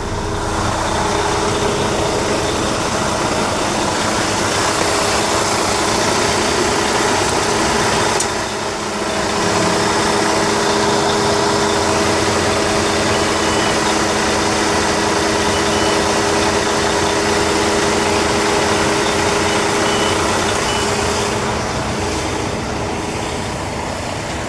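Freightliner 114SD roll-off truck's Detroit DD13 diesel engine running steadily with the PTO engaged, powering the hydraulic hoist as it raises; a steady hum with held tones, dipping briefly about eight seconds in.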